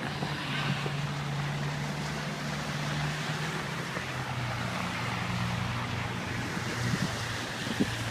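A motor vehicle's engine running as it passes, a low steady hum that drifts slightly lower in pitch about halfway through, over wind noise on the microphone.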